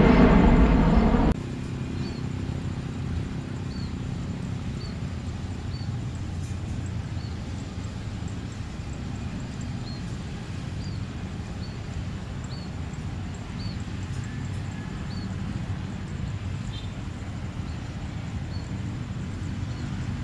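Steady low outdoor rumble with a small bird chirping about once a second. A louder sound cuts off abruptly just over a second in.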